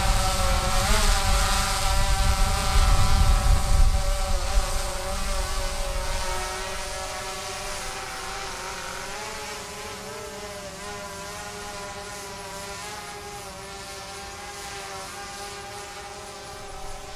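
DJI Phantom 3 quadcopter's propellers whining with a steady, slightly wavering pitch, getting quieter about six seconds in as it flies farther off. A low rumble runs under it at the start and dies away along with it.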